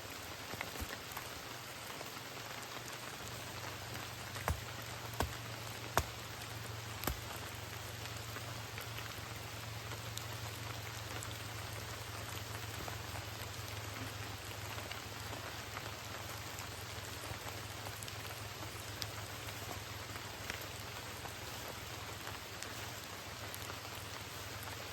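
Steady heavy rain with scattered drops striking close by, and a few sharper drop ticks about four to seven seconds in.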